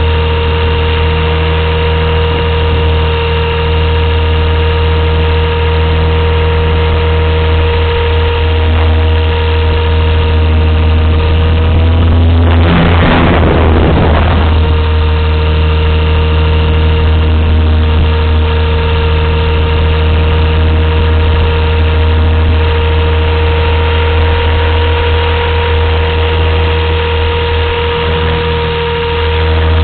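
Blade 230S V2 electric RC helicopter heard through its onboard camera: the motor and rotor run with a steady whine made of several tones. About halfway through, a burst of noise lasting about two seconds briefly covers the tones.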